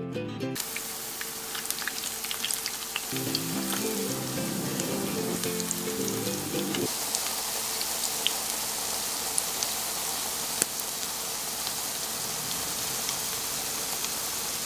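Panko-breaded edamame-and-corn patties shallow-frying in salad oil in a frying pan: a steady sizzle with scattered sharp pops of spitting oil.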